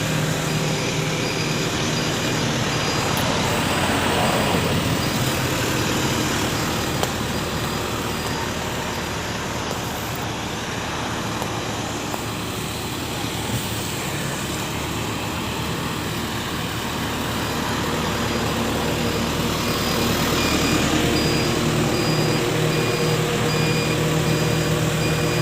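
A truck engine running steadily, with a faint high-pitched beeping through much of it.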